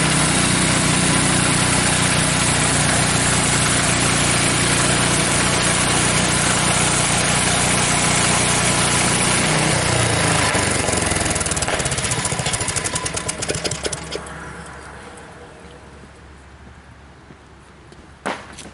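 Frontier OS23 portable band sawmill's gas engine running steadily under load as the band blade cuts through a log. About ten seconds in it starts to wind down, and it goes quiet by about fourteen seconds in, as the cut that finishes the cant ends. A sharp knock near the end.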